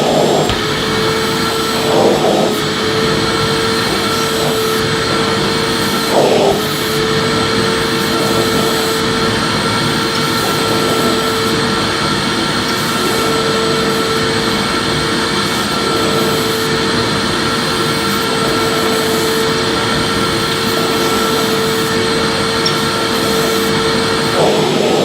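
Electric vacuum cleaner running steadily, a constant rushing noise with a steady whine. Its sound briefly shifts about two and six seconds in and again near the end, as when the nozzle is moved over a surface.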